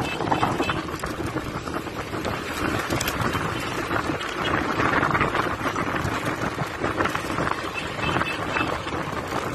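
Wind rushing over a phone microphone, mixed with road and traffic noise, recorded from a moving vehicle.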